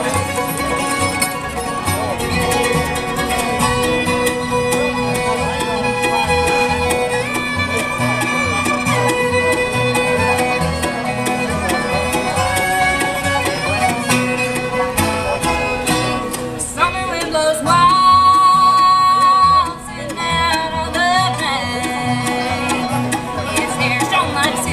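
Bluegrass band playing an instrumental break: fiddle, banjo and guitar over a steady bass pulse. About 17 seconds in, a louder held note with vibrato comes in for a couple of seconds.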